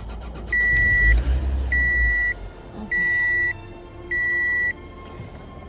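A car's dashboard warning chime beeping in a steady, even pattern, four long single-tone beeps a little over a second apart. A low rumble sounds under the first two beeps.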